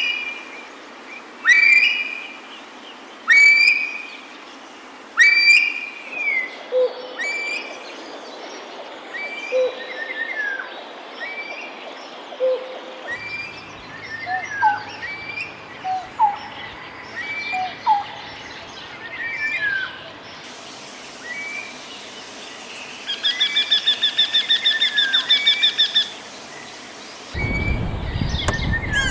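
Wild birds calling in a series of different calls: sharp repeated calls about every two seconds, then shorter whistled notes, then a fast rapid trill. A noisier, lower sound cuts in near the end.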